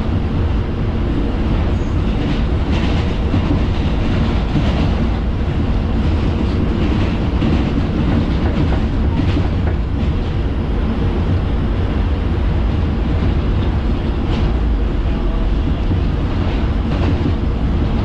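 Inside an R142 subway car running through the tunnel: a steady, loud rumble of steel wheels on the rails, with occasional faint clicks from the track.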